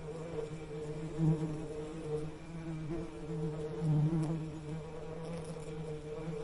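Bee buzzing: a steady low drone that swells louder about a second in and again about four seconds in.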